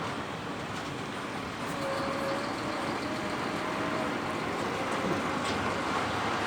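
Scania truck pulling a bitrain grain trailer, its engine and tyres running steadily, growing a little louder about a second and a half in.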